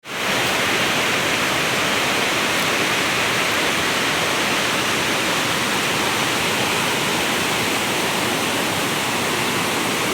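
Small waterfall: steady, loud rushing of falling water, cutting off suddenly at the end.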